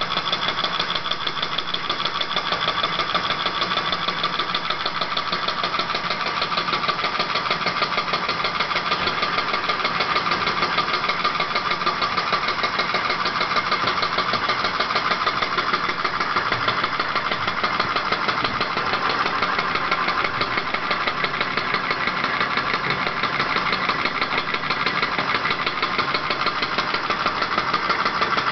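Small model hot-air engines running, with a fast, steady mechanical clatter.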